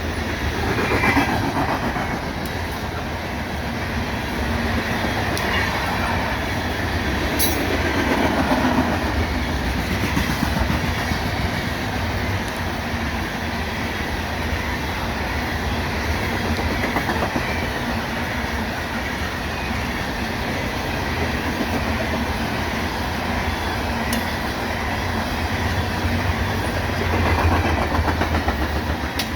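BNSF coal train's cars rolling past at speed: a steady rumble with wheels clicking over the rail joints.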